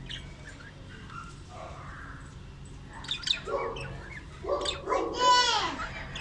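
Budgerigar chirping, with faint short chirps at first and sharper, louder calls in the second half, the loudest a drawn-out call that falls in pitch near the end.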